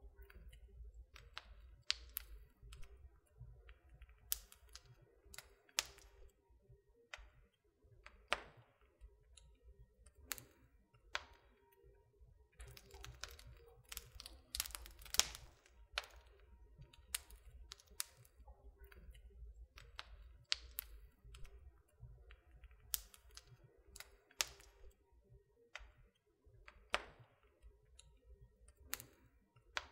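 Wood fire crackling in a fireplace: irregular pops and snaps of burning wood over a faint low rumble, with the loudest pop about fifteen seconds in.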